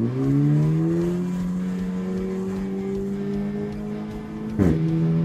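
Stage 2 Plus tuned Renault Mégane 4 RS Trophy's 1.8-litre turbocharged four-cylinder, with a stainless exhaust line and its valve removed, accelerating hard in Race mode, heard from inside the cabin. The engine note climbs quickly, then more slowly, and about four and a half seconds in a dual-clutch upshift brings a sharp crack and a sudden drop in pitch.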